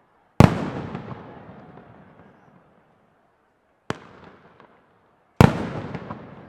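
Aerial fireworks shells: a heavy bang about half a second in that rolls away over a couple of seconds. A short, sharp launch thump comes about four seconds in, and a second and a half later another heavy burst echoes away.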